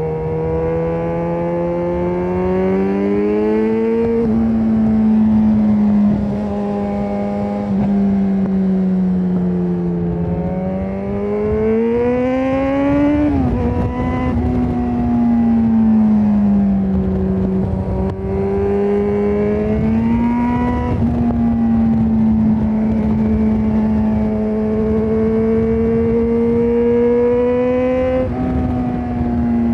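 Yamaha XJ6N's 600 cc inline-four through a Shark Street GP full exhaust system, under way: the engine note keeps rising and falling with the throttle, with a gear change about 13 seconds in where the pitch climbs and then drops sharply.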